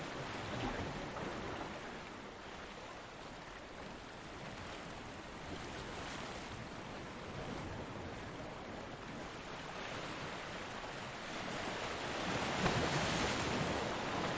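Ocean waves breaking on a beach: a continuous wash of surf, swelling louder as a wave breaks near the end.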